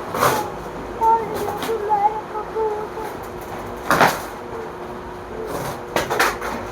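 Packaging being handled and pulled open: a few sharp rustles and knocks, one near the start, one at about four seconds and a couple around six seconds. A faint voice is heard in between, and a steady hum runs underneath.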